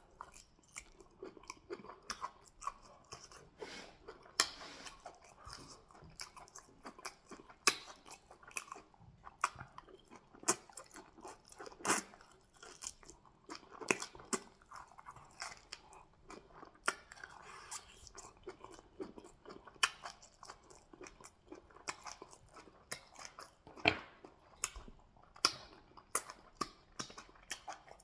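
Close-miked mouth sounds of a person eating fufu and goat meat in peanut soup: wet chewing with sharp, irregular smacks and clicks, several a second.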